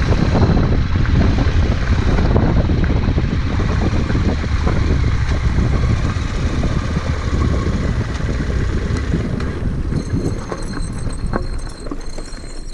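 Heavy wind noise buffeting the microphone on a moving motorcycle, easing off a little near the end.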